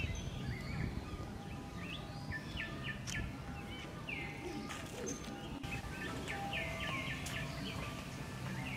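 Birds calling in trees: many short chirps that fall in pitch, repeated several times a second, over steady low outdoor noise.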